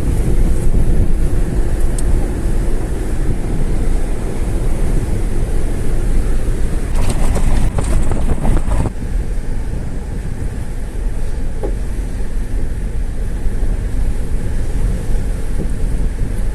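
Car driving along a paved highway: a steady rumble of engine and tyres. A louder rush of noise lasts about two seconds around the middle, then the rumble settles a little quieter.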